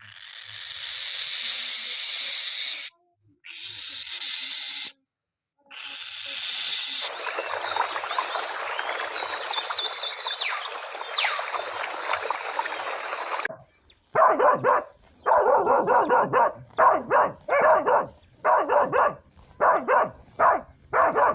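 A run of spliced animal sound clips: first a steady hiss broken by two brief cuts, then a dense chorus of overlapping calls, then from about two-thirds of the way in a series of short barking or yelping calls, roughly one a second.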